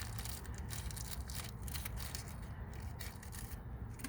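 Rustling and small clicks from a small parts pack and screws being handled, over a steady low rumble.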